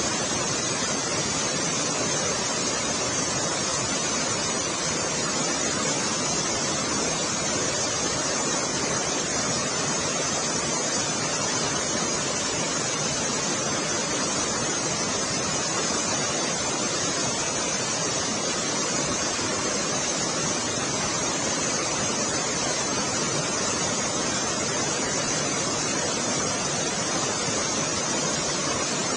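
Fast-flowing floodwater rushing in a steady, unbroken wash of noise.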